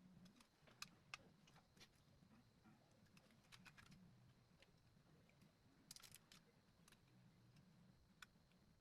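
Faint, irregular clicks of laptop keys being pressed on a MacBook Pro keyboard, with a quick run of several clicks about six seconds in.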